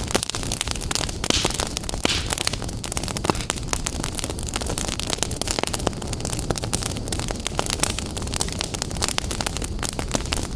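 Fire burning in a fireplace, crackling with frequent sharp pops over a steady low rumble.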